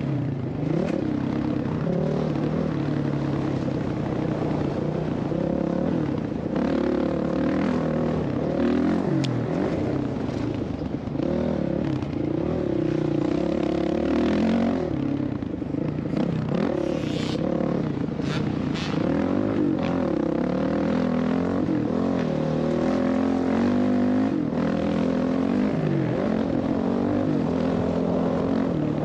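Motocross dirt bike engine revving up and down without pause, its pitch climbing and dropping again and again with throttle and gear changes.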